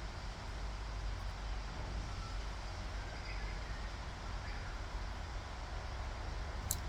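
Steady low rumble of outdoor background noise, with a single sharp click near the end.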